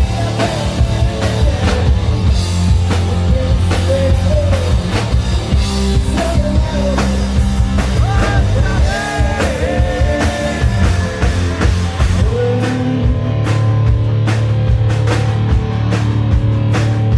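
Hard rock band playing live, with singing over distorted guitars and a drum kit; about two thirds of the way in the singing stops and sustained chords ring under steady drum hits.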